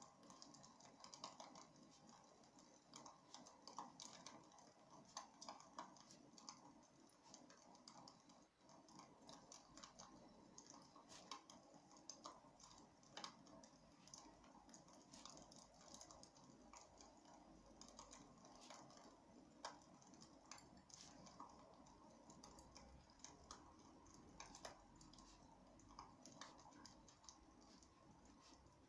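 Faint crackling of burning wood logs in a fireplace: irregular sharp pops and snaps over a low steady hiss.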